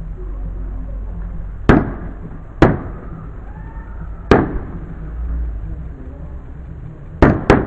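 Fireworks shells bursting overhead: five sharp bangs, each trailing off in a short echo, the last two close together near the end.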